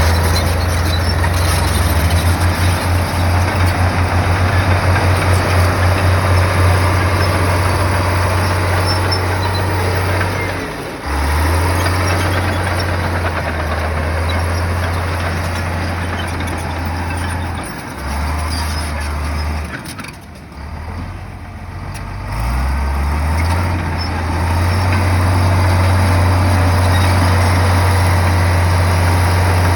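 Heavy bulldozer's diesel engine running under load with a deep, steady rumble. It pulses rhythmically at first, drops away briefly a few times in the middle, then rises in revs about two-thirds through and runs steady again.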